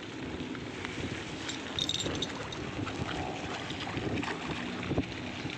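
Strong wind buffeting the microphone in an irregular rush, with scattered small clicks and one sharper knock about five seconds in.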